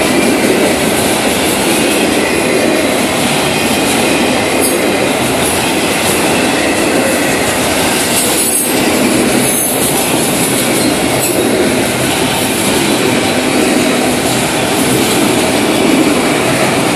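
Freight cars of a Florida East Coast Railway train rolling slowly past: a steady, loud noise of steel wheels on the rails.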